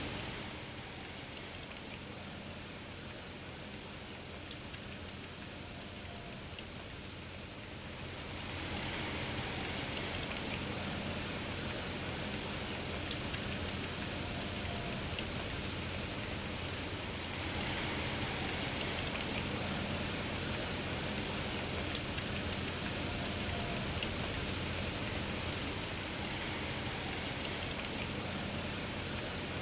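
Steady rain, softer for the first several seconds and then heavier, with three sharp, louder single drop hits standing out, about nine seconds apart.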